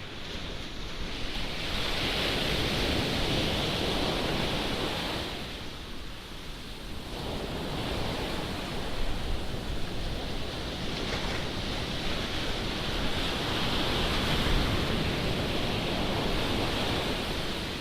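Surf breaking on the beach under a strong wind, with wind buffeting the microphone. The rushing noise swells and eases, dropping briefly a third of the way through before building again.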